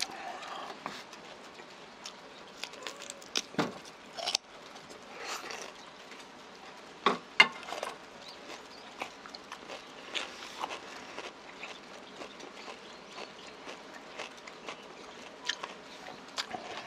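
Close-miked eating: a mouthful of stuffed cucumber kimchi and sea squirt bibimbap being chewed, with wet smacking, crunching and a scatter of sharp clicks, the loudest about seven seconds in.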